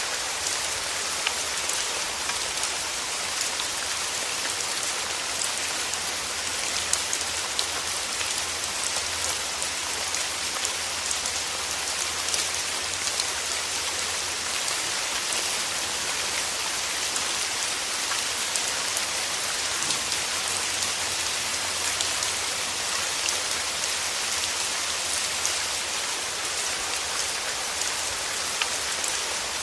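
Steady rain falling, a constant hiss of rain with many small individual drop patters on a surface.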